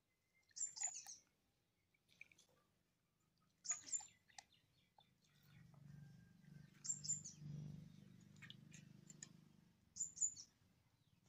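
A bird's short, high chirping call, a quick run of falling notes, repeated four times about three seconds apart.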